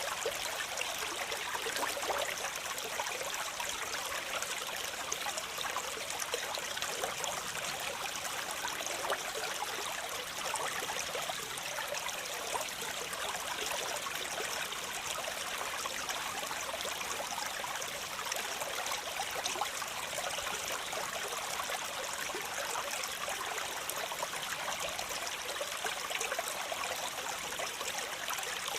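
Waterfall: water falling and rushing in a steady, even hiss with no breaks.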